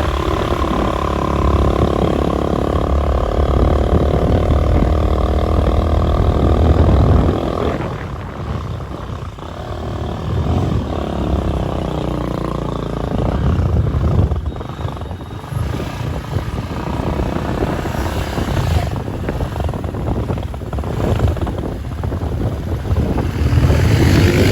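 An engine running with a steady hum that falls away about seven seconds in, leaving an uneven, rougher rumble.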